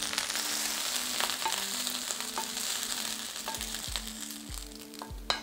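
Egg fried rice still sizzling in a hot stainless steel frying pan as it is scraped out onto a plate with a wooden spatula, with light scraping clicks. The sizzle thins out after about three and a half seconds.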